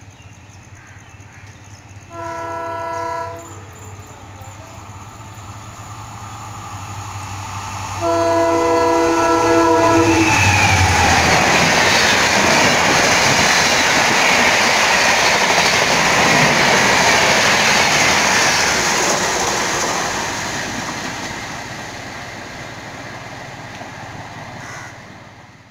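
WDP4 diesel-hauled Shatabdi Express approaching and running through a station at speed: the locomotive's horn sounds a chord twice, a blast of about a second and then a longer one of about two seconds. The loud noise of the train and its coaches on the rails follows and slowly fades as the rake passes.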